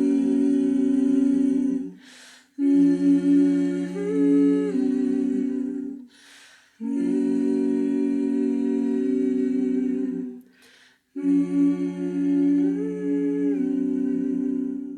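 Wordless a cappella humming in four long, slow phrases of held notes, with brief breaths between them, ending the song.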